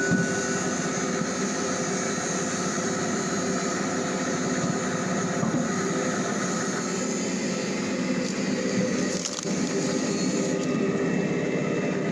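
Electric screw-cone log splitter with a heavy flywheel running steadily with a hum, its threaded steel cone boring into a log and splitting the wood with creaking and occasional cracks.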